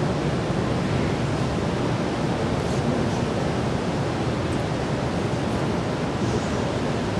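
Steady rushing noise with no distinct events, even across low and high pitches.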